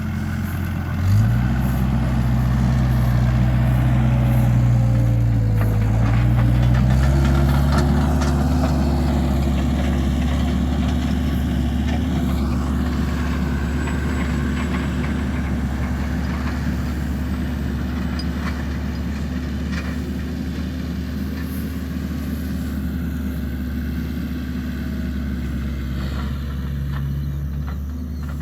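An engine running, rising in level and pitch with a sudden jump about a second in, then running steadily.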